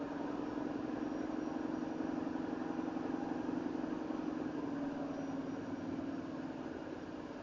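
Semi-truck's diesel engine running with a steady low drone that swells slightly and then eases off near the end.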